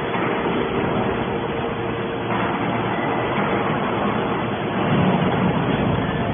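Hydraulic scrap metal baler running, a steady mechanical hum with a few held tones. It grows louder about two seconds in and again around five seconds.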